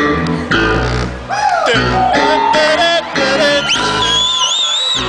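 Live band playing, with bass and electric guitar. A sliding, wavering high note is held through the last second or so.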